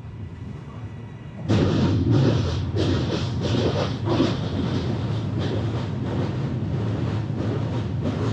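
Train running at speed, heard from inside an AC chair car. About a second and a half in, the noise suddenly gets much louder and becomes a steady rumble with fast, irregular clatter as the coach rolls onto a steel truss bridge.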